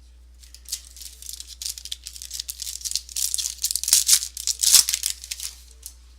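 Foil wrapper of a trading-card pack crinkling and tearing as it is opened, in quick irregular rustling bursts that are loudest about four to five seconds in.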